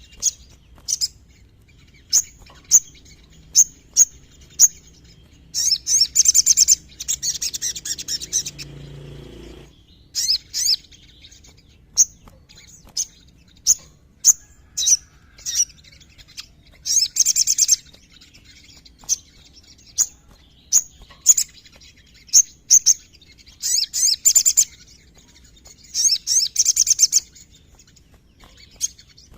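Little spiderhunter (sogon) singing: a string of short, sharp high chip notes, broken several times by rapid trills about a second long.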